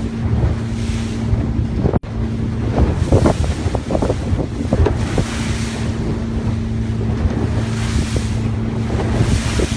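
Boat engine running with a steady low hum, under wind buffeting the microphone and rushing water, with a momentary dropout about two seconds in.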